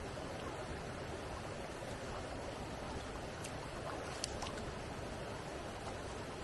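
Steady rushing of flowing stream water, with a few faint clicks about three and a half to four and a half seconds in.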